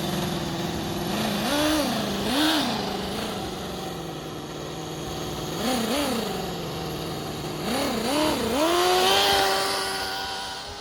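Toyan four-cylinder model engine in an RC truck running at a steady idle, blipped several times with short rises and falls in pitch. About nine seconds in it is held at higher revs, then fades near the end.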